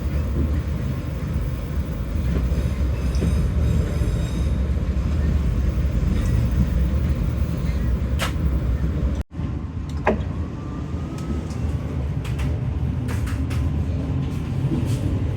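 Steady low rumble of a passenger train carriage running, heard from inside, with a few scattered clicks. It breaks off for an instant about nine seconds in.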